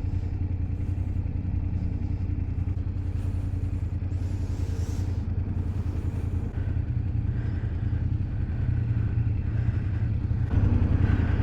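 BMW F800GS parallel-twin motorcycle engine running steadily at low revs, a deep even rumble that grows louder about ten and a half seconds in.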